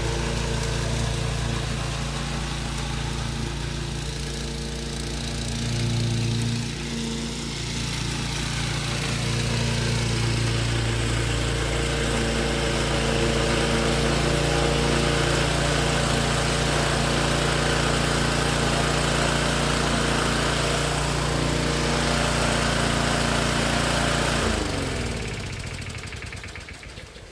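Small gasoline lawn mower engine running steadily, then shut off about 24 seconds in and winding down to a stop.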